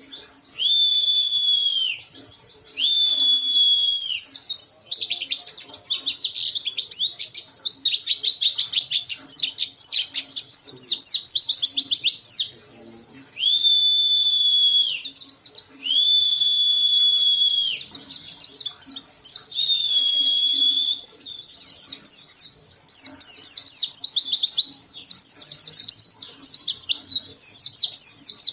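White-eye (pleci) singing hard, worked up: long steady whistles that drop in pitch at the end, alternating with rapid runs of quick falling chirps.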